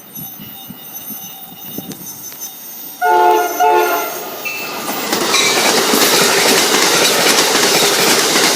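An approaching train sounds its air horn in two short blasts of a several-note chord about three seconds in. The loud rush of the train passing follows and keeps on.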